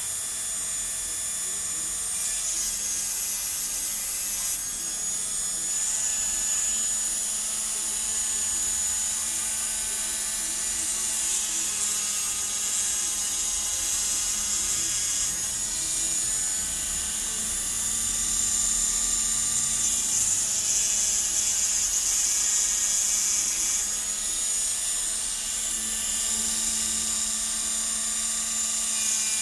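Small electric hand grinder running with a steady high whine while edging a spectacle lens. Its pitch dips briefly a few times as it takes load.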